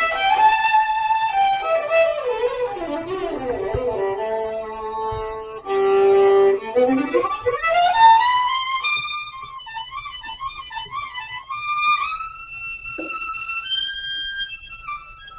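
Violin playing a slow melody. It starts high and steps down to a loud, held low note, then slides up and settles into higher sustained notes with vibrato.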